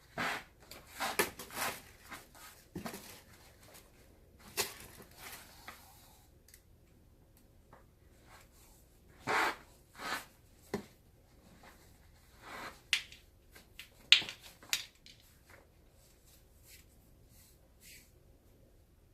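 Hand-work on a leather baseball glove: scattered short rubs, scrapes and clicks of leather and tools being handled, with a few sharper clicks about a second in and again about fourteen seconds in.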